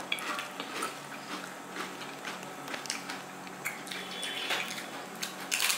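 Wet chewing of a mouthful of fuchka (panipuri), small crunches and mouth sounds, mixed with scattered spoon clinks and drips as tamarind water is spooned into a puri.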